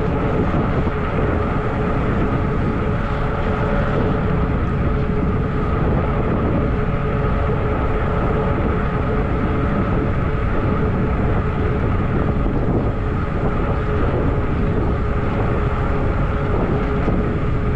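Wind rushing over the microphone of a fat-tire e-bike riding at a steady speed, with a steady hum from the bike underneath.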